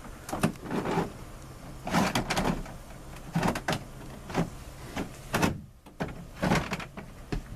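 A garbage bin's door or lid being handled: irregular knocks and rattles, about one or two a second.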